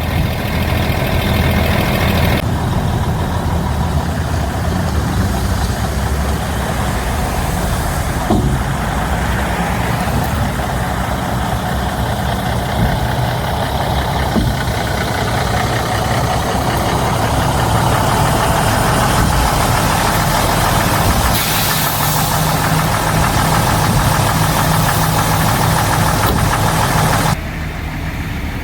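Mack Superliner dump truck's diesel engine running steadily, a continuous low rumble with broad mechanical noise over it. It drops abruptly in level near the end.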